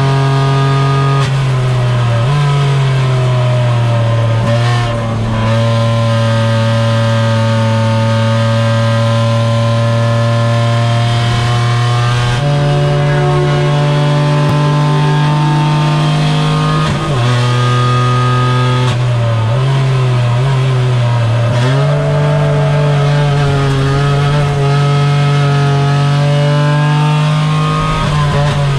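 Renault Twingo Cup race car's engine heard from inside the cockpit while lapping a circuit. It holds a steady note for several seconds at a time, with several sudden jumps in pitch and a falling note early on as the car slows.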